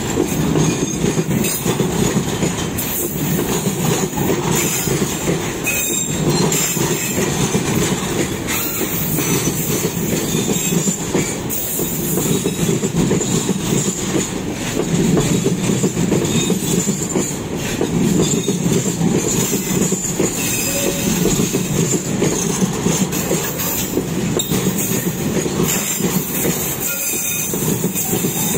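Freight train wagons rolling past with continuous wheel-on-rail rumble and irregular clatter, and a steady high-pitched wheel squeal over it.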